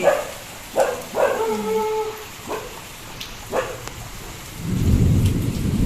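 A dog barks a few times over steady rain, then a loud low rumble of thunder builds near the end.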